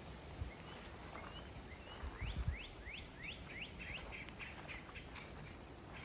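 A songbird singing a quick series of about seven rising whistled notes, then a run of shorter notes, with a few low thumps underneath.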